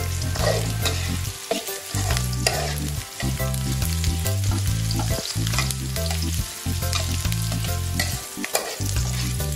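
Chopped onion and garlic sizzling in hot oil in an aluminium wok, stirred with a metal spoon that scrapes and clinks against the pan, with a low rumble underneath that drops out a few times. The garlic has just gone in after the onion turned translucent.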